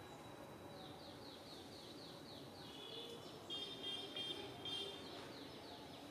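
A bird calling: a run of quick, high, falling notes, about three a second, with a louder stretch of steady high notes in the middle.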